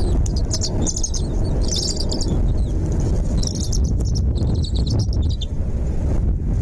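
Small birds chirping in several short bursts of high, rapid chirps over a steady low rumble.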